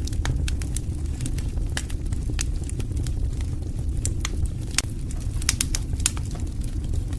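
Wood fire burning: a steady low rumble with frequent, irregular sharp crackles and pops.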